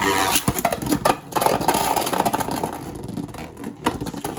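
Beyblade spinning tops whirring and grinding against each other, with several sharp clashes.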